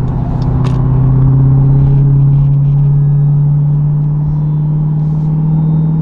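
Supercharged 6.2-litre Hemi V8 of a 2023 Dodge Durango SRT Hellcat, its mufflers cut off with the resonators left on, cruising at steady revs. The exhaust gives a loud, even drone that holds one pitch throughout, heard from inside the cabin.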